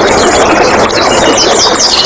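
Flowing water rushing steadily, with several wild birds singing over it: fast series of short, sweeping high notes.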